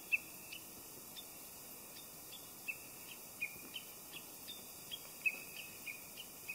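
Small birds calling in short, scattered chirps over a steady faint hiss, fading out near the end.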